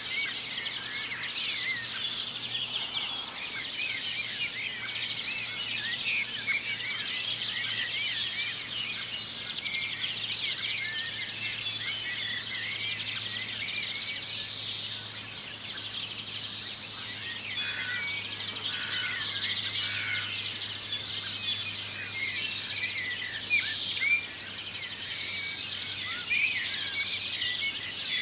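Morning chorus of many songbirds singing at once: dense, overlapping chirps and warbles, over a faint steady low hum.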